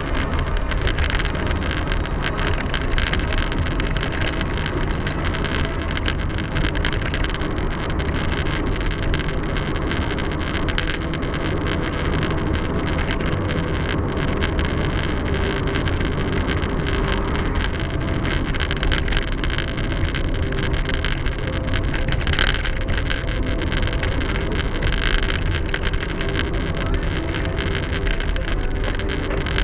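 Steady rumbling noise of a moving vehicle, with a couple of brief louder moments near the end.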